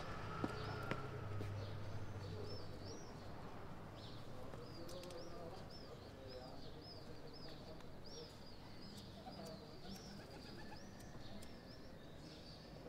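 Small birds chirping over and over in quick high chirps, with a fainter, lower cooing in the middle and a low hum during the first few seconds. There is a single click about half a second in.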